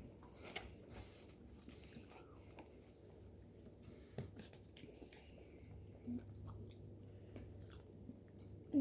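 People chewing and biting into chicken wings: faint mouth sounds with small scattered clicks.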